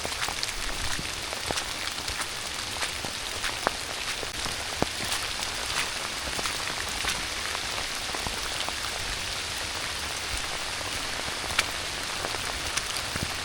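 Steady rain falling: an even hiss, dotted with sharp ticks of single drops striking close by.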